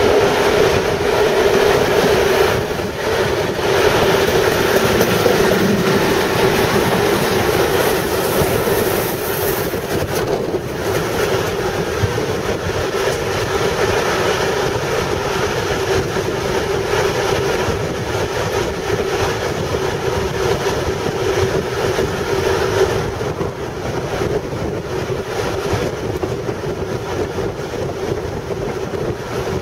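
A steam-hauled passenger train running along the track, heard from an open carriage window: a steady rush of wheel-on-rail noise with a constant hum under it.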